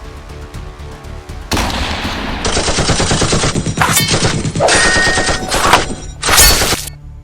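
Action music, then from about a second and a half in, rapid automatic gunfire sound effects in several long bursts, with the loudest burst near the end.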